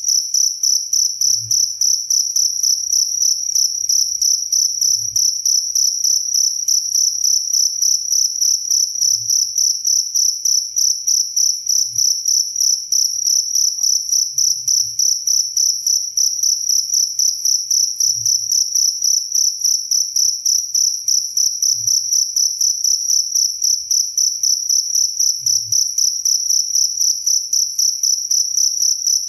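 Cricket chirping without a break: a steady, high-pitched trill of rapid, even pulses.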